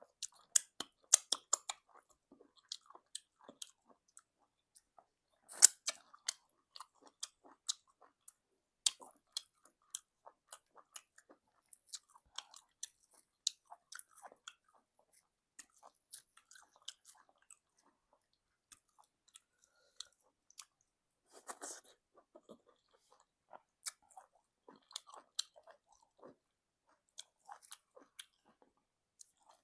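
Close-miked eating sounds of egusi soup with semolina: wet chewing and mouth clicks, irregular and sparse, with a few louder smacks.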